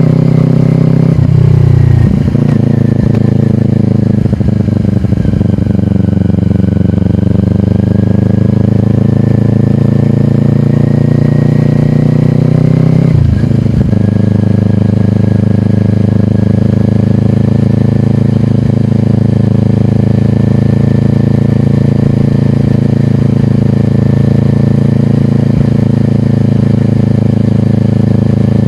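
2022 Kawasaki Ninja 400's parallel-twin engine through a slip-on exhaust, running while ridden. The engine note breaks briefly about a second and two seconds in and again about 13 seconds in, with a slow dip and rise in pitch in between, then holds a steady pitch.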